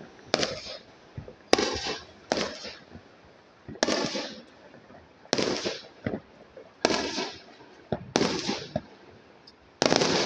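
Fireworks going off in a series of about eight sharp bangs, roughly one every second or so, each trailing off over about half a second.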